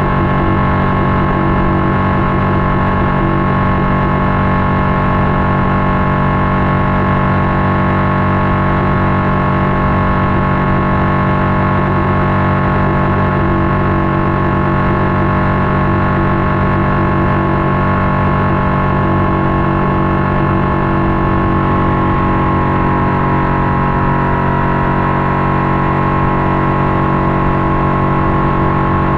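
Boat motor running steadily under way; its tone shifts about two-thirds of the way through.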